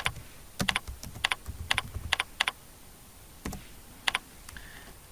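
Computer keyboard being typed on: about a dozen quick, uneven keystrokes, with a pause of about a second past the middle.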